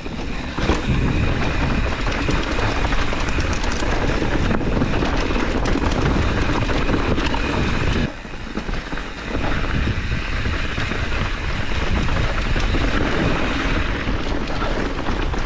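YT Jeffsy full-suspension mountain bike riding down a rocky trail: tyres running over rock and gravel, with a constant clatter and rattle of the chain and frame, and wind rushing over the microphone. It eases off briefly about halfway.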